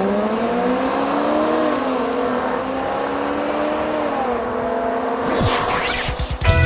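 Sports car engine accelerating hard, its pitch climbing and then dropping at a gear change about four seconds in. A quick falling whoosh follows near the end.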